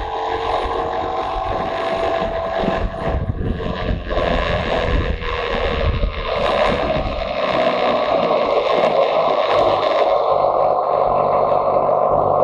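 Motorcycle engine running steadily while riding, with wind buffeting the microphone. The wind rumble eases about seven seconds in while the engine note carries on.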